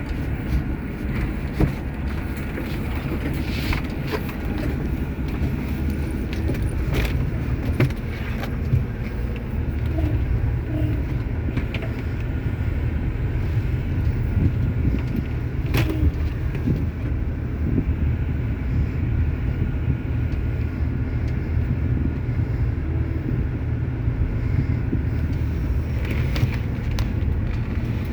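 Truck engine running steadily as the vehicle is driven, with a low rumble and occasional clicks and rattles.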